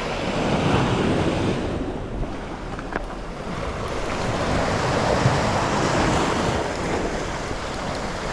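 Sea surf washing in and out, swelling twice and easing between, with wind buffeting the microphone.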